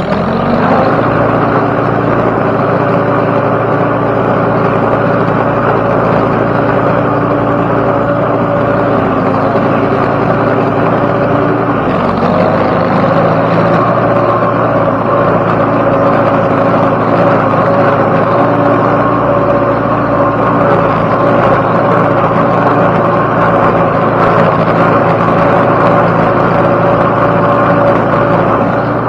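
Farm tractor engine revving up and then running steadily at high speed, with a brief drop and recovery in engine speed about twelve seconds in.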